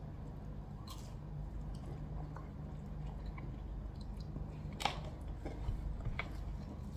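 A person chewing food close to the microphone, with a few sharp clicks over a steady low hum.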